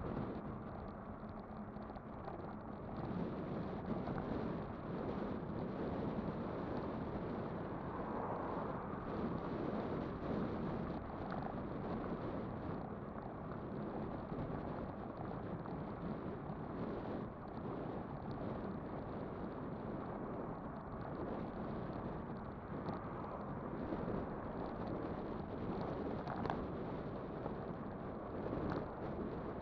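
Wind rushing over the microphone and tyre rumble from a Kugoo Kirin V5 electric bike riding along at a steady pace, a continuous noise without pauses.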